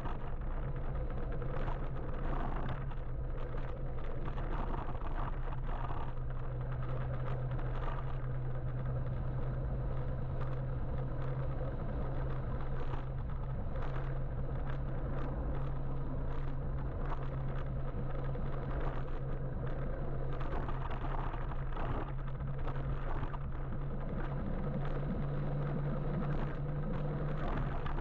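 Riding noise on an electric motorbike in city traffic: a steady low hum under road and wind noise, with a few short clicks.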